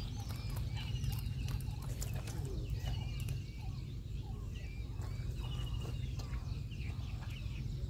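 Several wild birds chirping and whistling, with a short rapid trill repeated a few times. A steady low rumble runs underneath.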